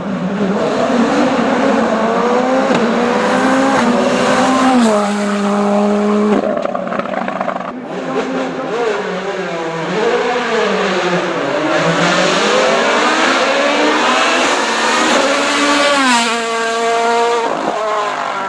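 Race car engine at high revs on a hill climb, its pitch rising under acceleration and dropping in sudden steps at the gear changes, with a hard climb in revs followed by quick shifts near the end.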